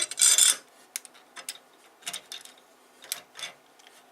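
Small plastic plates, nuts and brackets from a 3D printer's Z-axis anti-backlash nut assembly being handled and taken apart by hand: a brief loud clatter at the start, then scattered light clicks.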